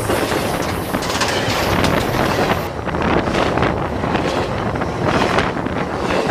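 BNSF train rolling over a camera set on the track: a loud, steady rumble and rattle of the cars passing overhead, the sharper hiss dropping away about three seconds in.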